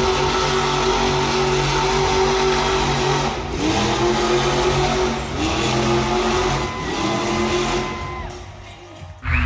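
Monster truck engine running loud, then revving up three times in quick succession before the sound fades out near the end.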